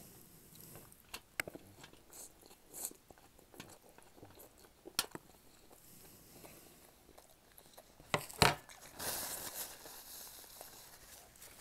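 A person chewing and biting food close to the microphone, with scattered sharp clicks, a louder double click about eight seconds in, and a short crunchy stretch just after it.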